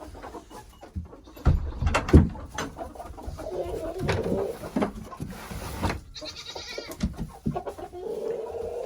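Chickens in a coop calling, with several knocks and clatters, the loudest about two seconds in.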